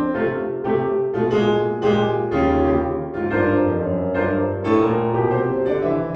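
Piano music: chords and notes struck about twice a second, each ringing and fading.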